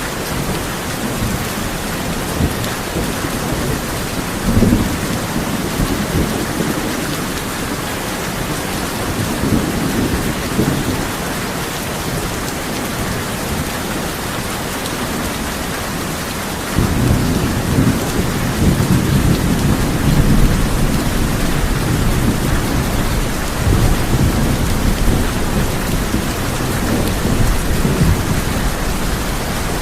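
Heavy rain drumming on a tin roof as a steady hiss, with thunder rumbling under it: two brief low rolls in the first half, then a longer, stronger rumble that starts suddenly just past halfway and runs on.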